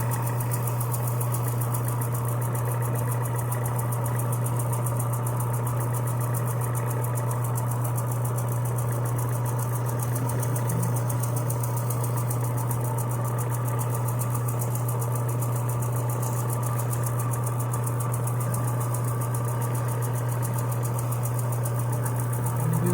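Electric sander running steadily, a constant motor hum with an even hiss of abrasive paper working a metal pedal handle smooth for paint.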